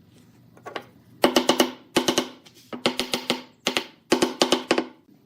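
Rapid clusters of sharp knocks, three or four strikes at a time with a short ringing tone after each, in several groups with brief pauses between them.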